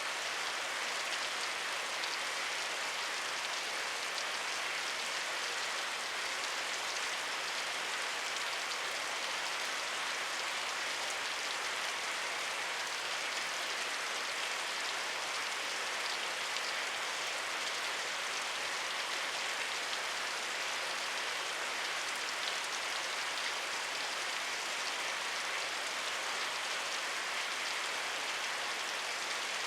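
Steady rainfall, a dense even hiss of drops with fine patters of individual drops on a surface, unchanging throughout.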